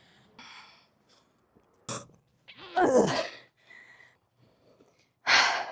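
A person's exertion sounds during lunges: a faint breath, a short click, then a groan falling in pitch about three seconds in, and a hard, noisy exhale near the end.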